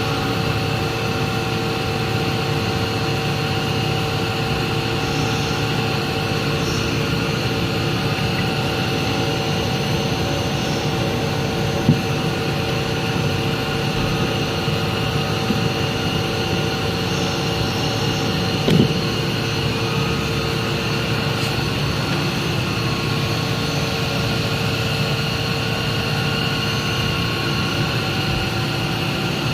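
CNC milling machine running: a steady machine hum with several held whining tones, and a brief knock about twelve seconds in and another near nineteen seconds.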